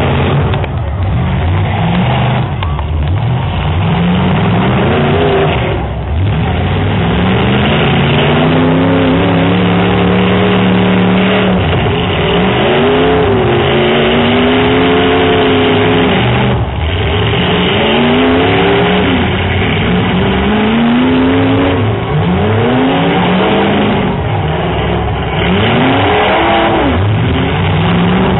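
Several full-size demolition derby cars' engines revving hard, their pitch climbing and falling again and again as the cars accelerate and back off, with the whines overlapping one another.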